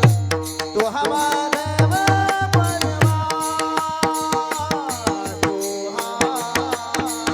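Kirtan devotional music: a sustained melody with gliding notes over hand-drum strokes, with small hand cymbals striking steadily several times a second to keep time.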